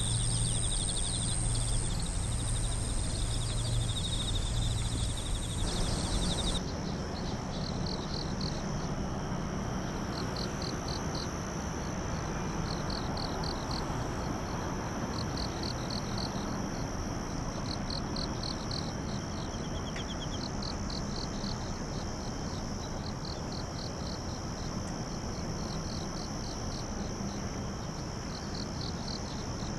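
A night chorus of crickets and other insects: a steady high-pitched ringing, with short pulsed chirps repeating in groups. About six seconds in, it cuts to a different insect chorus.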